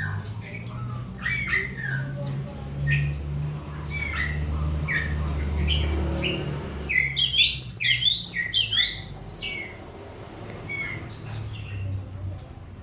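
Cinereous tit (gelatik batu) calling: short repeated chirps, then a fast burst of harsh chattering notes about seven seconds in. A steady low hum runs underneath.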